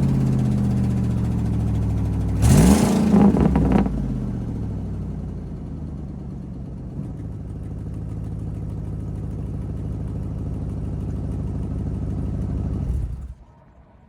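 Ford F-150's 5.4-litre V8 running through a short side pipe with no muffler: the revs fall back at the start, there is a quick blip of the throttle a couple of seconds in, then it idles until the engine stops near the end.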